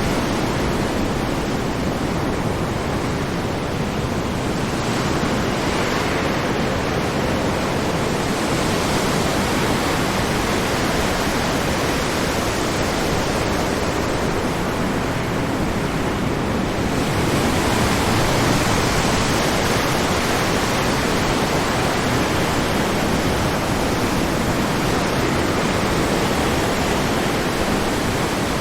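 Ocean surf: waves breaking in a continuous wash of noise that swells and eases slowly, with a fuller surge about two-thirds of the way through.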